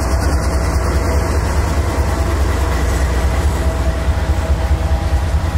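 Freight train of tank cars rolling past close by: a loud, steady rumble of steel wheels on the rails.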